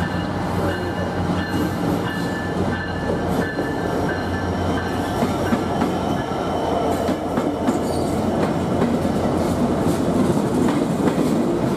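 EMD diesel-electric locomotive's engine running with a steady low drone as it rolls slowly past, the drone fading over the first half as the passenger coaches follow. The coaches' wheels click over rail joints, with thin squeals from the wheels as the train comes into the station.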